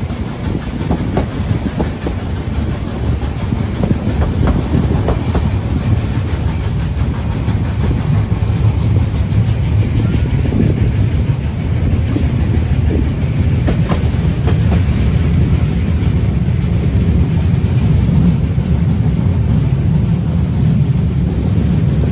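Steam train running along the track, a loud steady low rumble with occasional sharp clicks from the wheels and rails.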